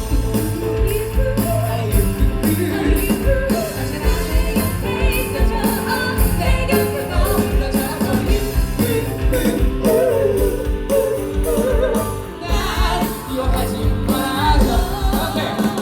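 Live band music with singing, over a steady beat.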